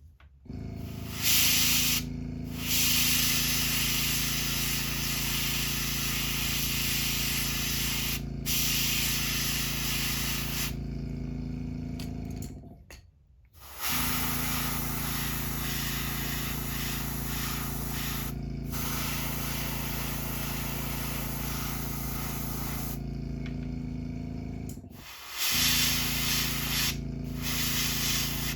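Airbrush spraying paint in long hissing bursts with short pauses between them, over the steady hum of an air compressor. The hum and hiss both drop out briefly twice, about halfway through and near the end.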